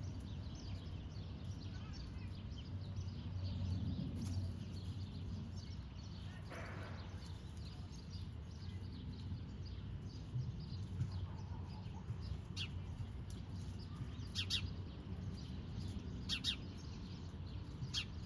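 Small birds chirping, with scattered faint chirps and a few sharper, louder chirps in the latter half, over a steady low background rumble.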